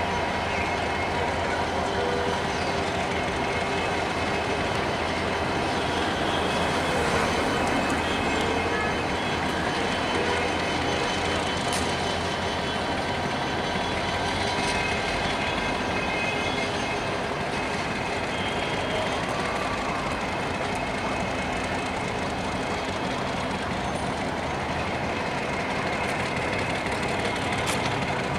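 Diesel locomotive hauling a long metre-gauge passenger train slowly through yard tracks: a steady low engine hum under the rumble of rolling wheels, with thin high squealing tones from wheels on the curves.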